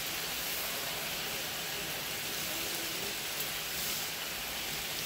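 Diced potatoes with peppers and onions frying in oil in a pan: a steady sizzle.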